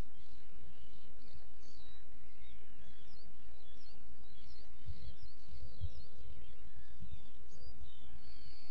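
Small birds chirping and twittering in many short, quick calls, over a steady low rumble with a few dull thumps near the middle.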